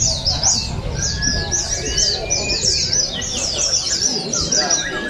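Several white-eyes (pleci) singing at once in a dense, unbroken chorus of quick high chirps, each sliding down in pitch.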